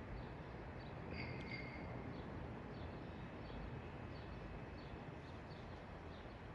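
Outdoor background noise with a series of faint, short high chirps about two or three a second, and a brief whistled bird call about a second in.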